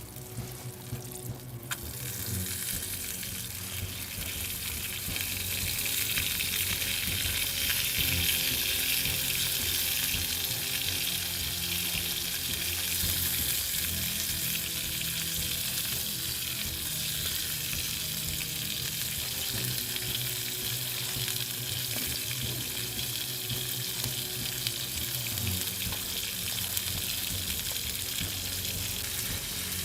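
Food sizzling in a hot pan: a steady frying hiss that swells about two seconds in and then holds.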